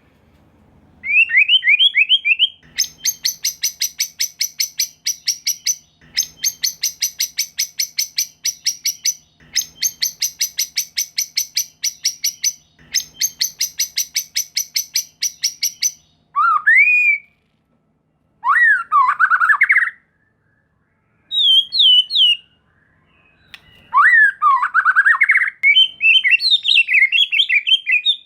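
White-rumped shama (murai batu) giving four runs of rapid rattling ticks, about seven a second, then loud rising whistled phrases and jumbled song notes. This is the agitated, combative rattle (ketrekan) used to provoke rival shamas into singing.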